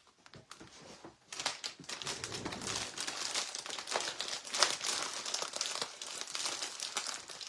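Dry craft moss being pulled apart and handled, a steady crinkling and crackling rustle that starts about a second in.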